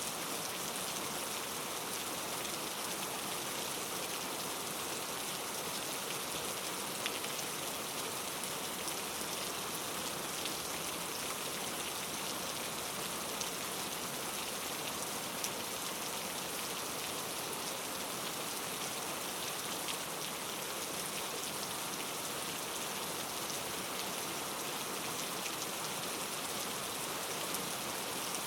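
Steady rain falling on a surface, an even hiss of many drops with faint individual patters, unchanging throughout.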